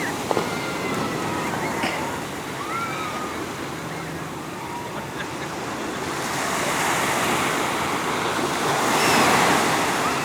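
Ocean surf washing onto a beach, growing louder in the second half as a wave breaks, with a few faint high gliding calls in the first few seconds.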